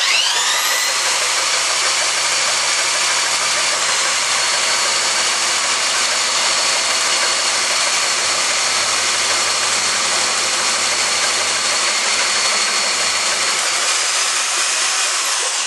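A small electric motor spins up with a quick rising whine, runs steadily with a loud, even hiss for about fifteen seconds, then winds down near the end.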